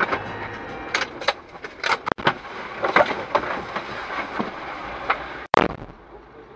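Car road noise heard through a dashcam, broken by a run of irregular sharp knocks and rattles, with one loud sudden bang near the end.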